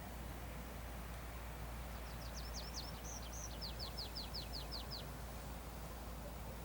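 A songbird singing one high phrase about two seconds in: a few varied short notes, then a quick run of about eight short falling strokes, over a steady background hiss and low hum.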